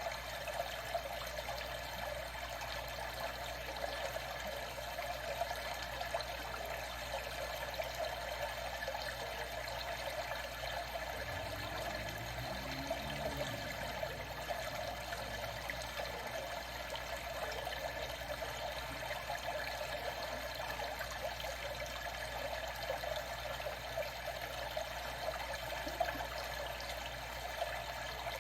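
Water trickling and lapping in a steady, even flow, with many small drips and splashes and no change across the stretch.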